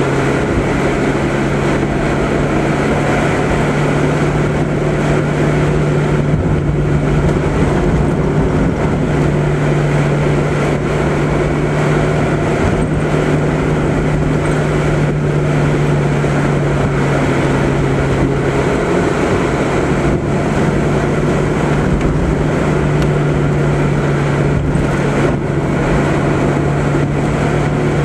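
Mazda Miata's four-cylinder engine droning steadily at cruising revs, heard from inside the moving car over road noise. The engine note steps down a little about two-thirds of the way through.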